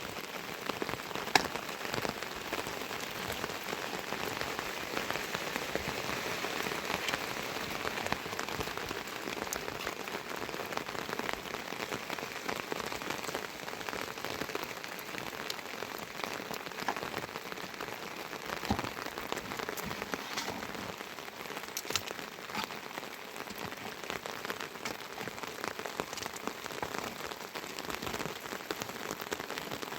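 Steady rain falling, with many sharp individual drop hits scattered through it and one louder hit about a second and a half in.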